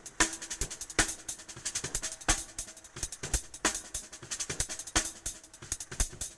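Drum kit played in a fast improvised solo: rapid strokes on drums and cymbals, with heavy accents a little over a second apart.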